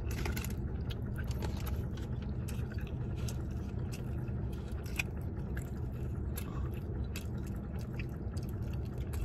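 A person chewing kwek-kwek, battered quail eggs, close to the microphone: soft wet mouth clicks and smacks scattered through, over a steady low hum.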